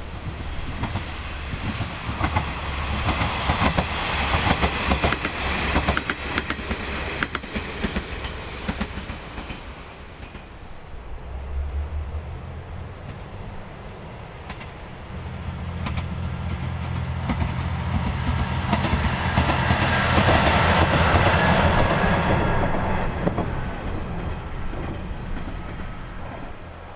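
Diesel railcar running past: wheels clacking over rail joints in rapid clicks in the first third, then the low drone of its diesel engine building to a peak about two-thirds through and fading away.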